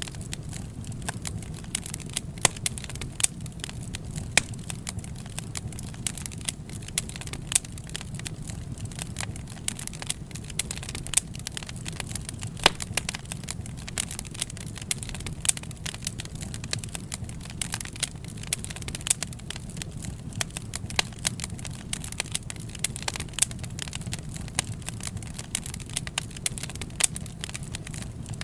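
Wood fire burning, with a steady low rush of flame and frequent irregular crackles and sharp pops from the burning wood.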